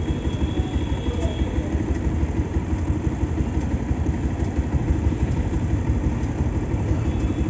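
Motorcycle engine running steadily, heard as a dense low rumble.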